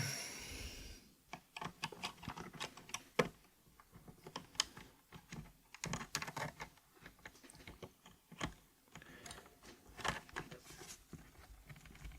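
Faint, irregular small plastic clicks and taps from an 8BitDo mechanical keyboard being worked on by hand during a switch swap, as switches and keycaps are handled and pressed into place.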